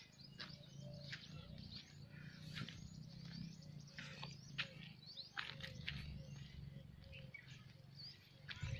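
Wild birds chirping and calling, many short high chirps and quick sweeps overlapping, with a soft low note repeated about twice a second. A steady low hum runs underneath.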